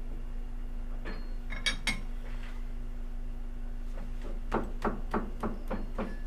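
Light hammer taps on a workpiece held in a lathe chuck, nudging it true while a dial indicator shows its runout. A few taps come about a second in, then a quick run of about seven, roughly four a second, near the end, over a steady electrical hum.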